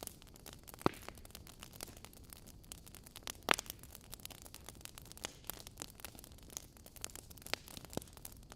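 Logs burning in a fireplace, crackling: frequent small sharp snaps over a low steady hiss, with louder pops about a second in and about three and a half seconds in.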